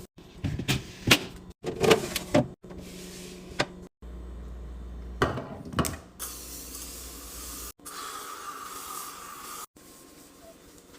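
A quick run of spliced fridge-restocking sounds: items knocking and clattering as they are handled and set down, then a few seconds of hiss like a spray cleaner.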